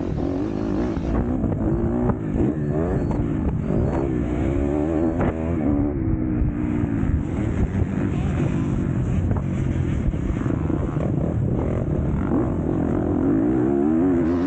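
MX2 motocross bike engine racing around the track, its pitch rising and falling over and over as the throttle is opened and closed.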